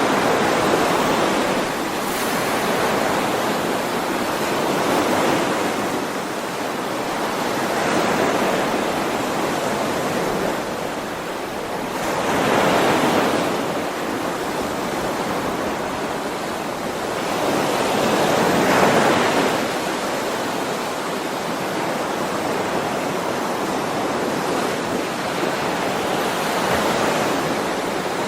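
Ocean waves washing onto the shore in a continuous rush that swells and ebbs every few seconds, with two larger surges around the middle and a little after.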